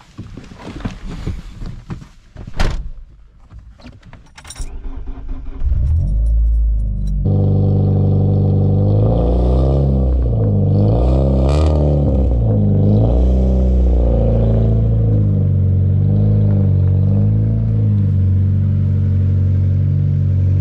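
Handling noises and a thump, then a loud four-cylinder car engine with a loud aftermarket exhaust starts about six seconds in. It is blipped up and down several times, then settles into a loud, steady idle.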